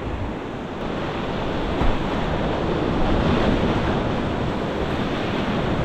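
Whitewater river rushing steadily around a kayak running rapids, with a short thump about two seconds in.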